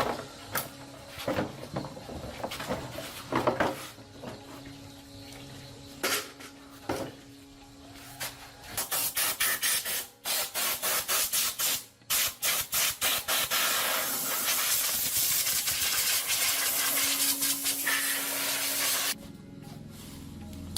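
A few knocks and clinks of handling, then a pressurised spray hissing. The spray comes first in a run of short, quick bursts and then runs steadily for about five seconds before cutting off abruptly near the end.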